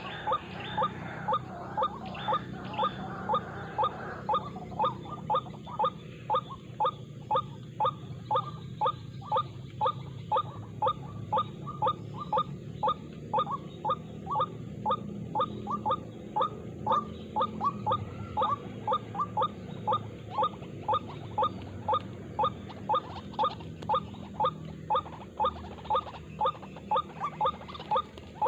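White-breasted waterhen call: short, sharp notes repeated very evenly, about two a second, on and on.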